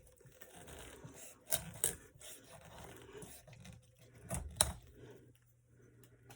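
Knife cutting a whole raw bird down the middle: quiet scraping and tearing as the blade works through, with a few sharp knocks about one and a half seconds in and again around four and a half seconds.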